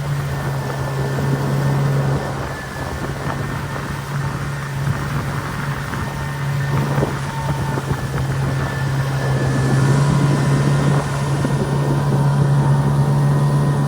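Boat outboard motor running steadily at cruising speed, a constant low drone, slightly louder in the second half.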